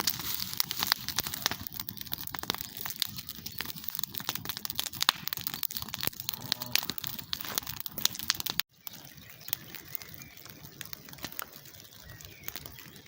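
Campfire crackling, with many sharp snaps and pops from the burning wood. About eight and a half seconds in, the sound cuts off for an instant and goes on quieter, the snaps fainter.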